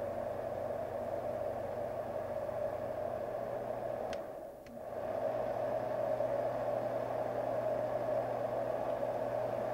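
Marpac SleepMate 980A fan-type white noise machine running: a steady, smooth rushing of air over a low motor hum. About four seconds in, the sound briefly drops out with two clicks about half a second apart, then comes back slightly louder.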